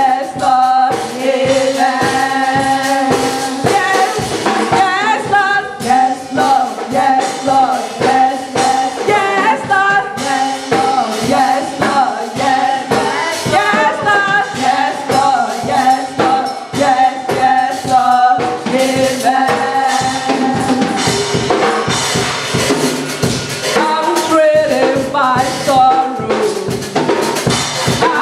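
Live gospel worship music: choir singing over a drum kit keeping a steady beat, with other band instruments.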